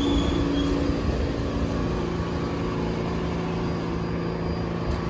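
Rail train moving through the station with a steady drone of motors and several held low hums, and a brief high wheel squeal just after the start.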